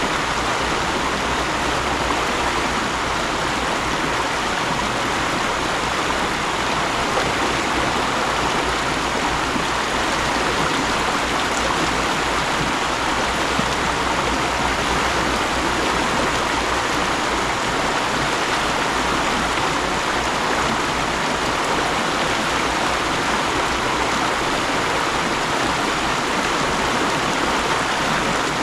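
Mountain stream rushing steadily over rocks, a constant even wash of water.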